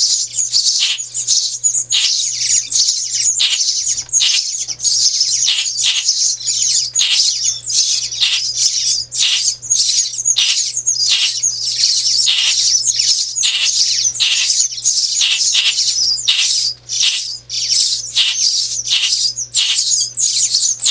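Nestling songbirds giving begging calls while being hand-fed: a continuous crowd of rapid, high, overlapping chirps.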